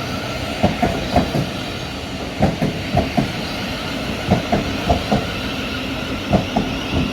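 Class 700 electric multiple unit running along the platform, its wheels clicking over rail joints in clusters of knocks about every two seconds above a steady rumble.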